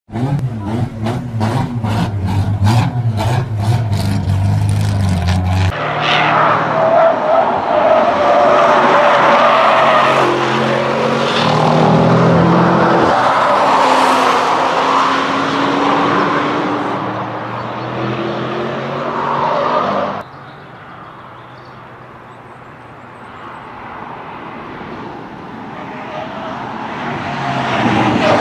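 Audi RS6 prototype's twin-turbo V8 on track. It opens with a few seconds of rapid, even pulsing. The engine then revs and accelerates with its pitch rising and falling. After a cut about twenty seconds in it drops quieter and grows louder again near the end as the car approaches.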